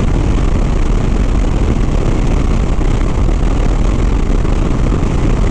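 Steady wind rush on the rider's microphone with the Harley-Davidson Sport Glide's V-twin engine running at highway speed underneath, a constant deep rumble.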